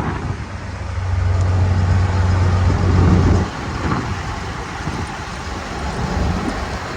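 A heavy truck's engine runs with a steady low hum that cuts off suddenly about three and a half seconds in, with wind noise on the microphone throughout.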